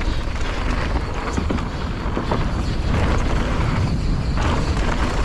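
Wind buffeting a GoPro action camera's microphone as it rides on a mountain bike going downhill, a steady low rumble with scattered clicks and rattles from the bike and its tyres over the rough trail.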